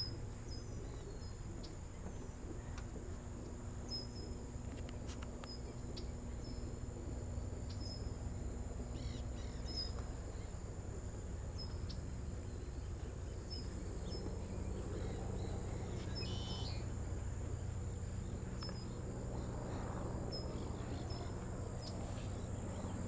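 Outdoor ambience with insects: a steady high-pitched drone and a short chirp repeating about once a second, over a steady low rumble.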